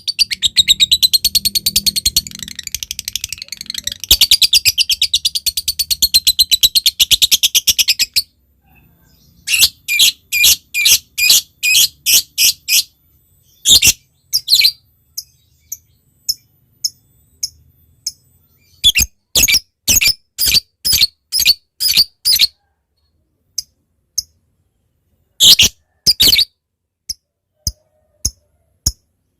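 Lovebird calling: a long, rapid, chattering high trill (the 'ngekek') for about the first eight seconds. It breaks off into runs of sharp single chirps (the 'ngetik' ticking call), about two or three a second, which grow sparse near the end.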